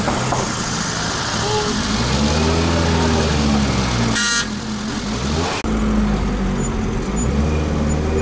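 Car engine running, heard from inside the car, its revs rising and falling as it drives. A short horn toot sounds about four seconds in.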